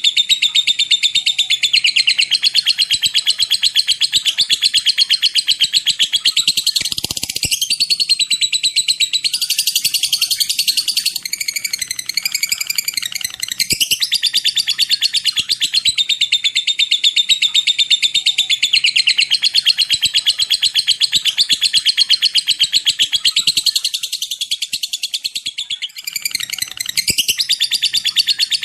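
Lovebird singing a long, unbroken ngekek: a high, very fast ticking chatter of rapidly repeated notes, briefly changing pattern about halfway through and again near the end.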